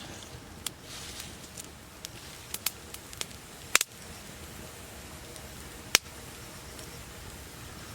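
Wood campfire crackling: scattered sharp pops over a low steady hiss, the loudest pop near the middle and another strong one about three-quarters through.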